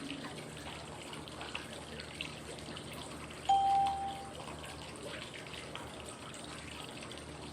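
Steady flowing-water white noise with small drips and trickles. About halfway through, a short pure chime tone sounds for under a second: a prompt tone cueing the next phase of a 5-second inhale, hold, exhale breathing cycle.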